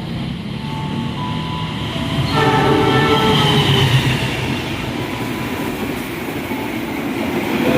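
A train running through the station with a steady rumble, its horn sounding about two seconds in for a second or two.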